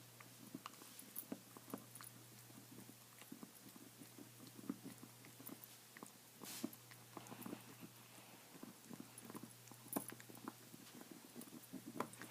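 Dog gnawing on a bone: faint, irregular crunching and clicking of teeth on bone, with an occasional louder crack.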